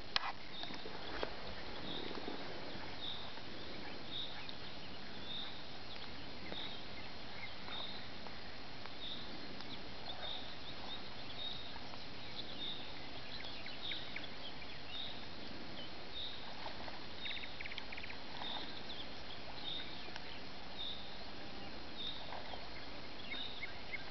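Pond-side ambience in which a bird repeats one short high note about once a second, with a few other brief chirps now and then.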